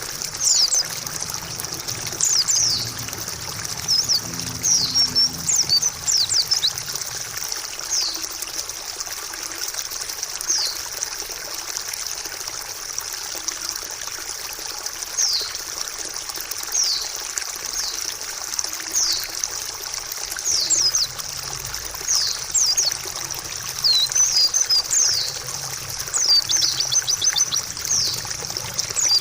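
Water trickling steadily, with quick, high, down-slurred chirps from white-eyes (pleci) coming again and again throughout.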